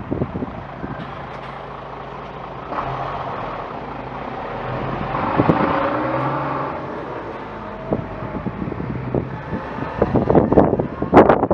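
A road vehicle passes, its sound swelling and then fading over a steady low hum. Near the end, sharp gusts of wind crackle on the microphone.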